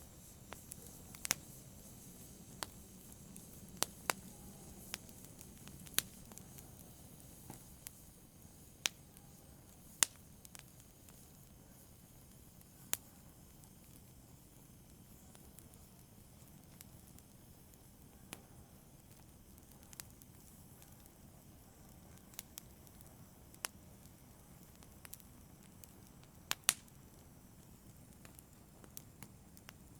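Fire crackling: sharp, irregular pops every second or two over a faint, soft hiss, with a few louder pops about ten seconds in and near the end.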